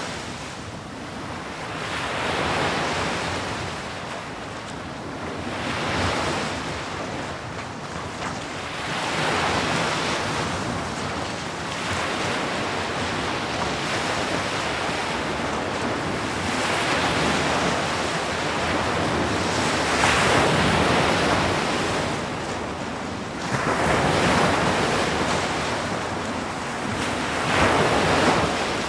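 Ocean waves breaking on a shore, the surf rising and falling in swells every few seconds.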